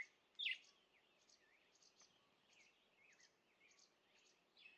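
Faint birdsong: quick high chirps and short trills, several a second, a little louder in the first half second.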